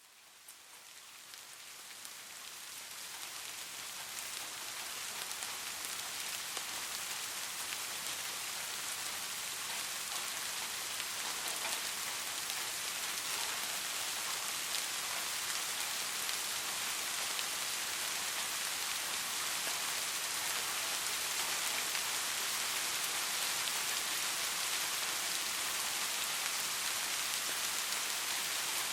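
Steady rain falling, an even hiss of many drops, fading in from silence over the first few seconds and then holding level.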